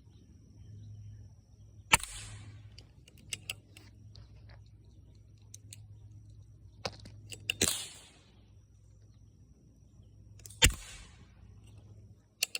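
Three rifle shots, each a sharp crack with a short fading echo, the second about five and a half seconds after the first and the third about three seconds later, with lighter metallic clicks between shots.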